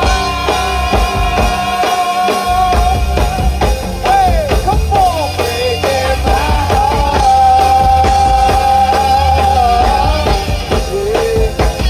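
Live band music: drum kit and bass under a held, wavering melody line. The heavy bass comes in about two and a half seconds in.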